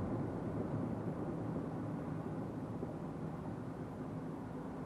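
Truck engine and road noise heard from inside the cab while driving, a steady low rumble with a faint engine hum.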